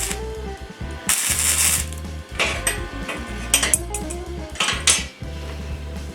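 Steel pieces clanking as they are handled and set down: several sharp metallic knocks, with a short scraping hiss about a second in, over background music.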